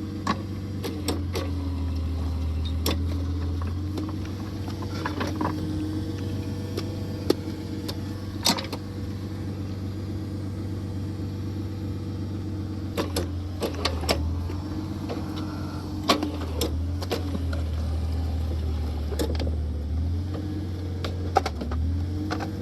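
Post-hole auger machine's engine running steadily, its pitch dipping briefly a few times as if under load, with scattered sharp knocks and clinks.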